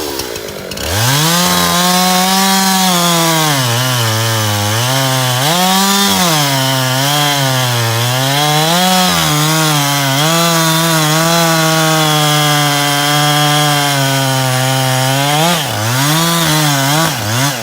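Two-stroke chainsaw at full throttle cutting jarrah firewood. It revs up about a second in, its pitch sagging and recovering repeatedly as the chain loads in the hardwood, then drops back near the end.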